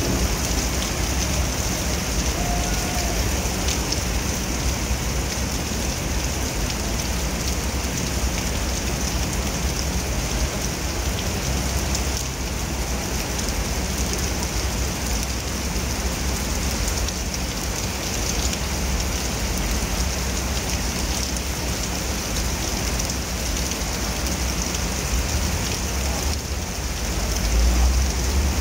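Heavy rain pouring steadily onto wet paving, an even hiss of drops splashing on the pavement and puddles. A brief low rumble rises near the end.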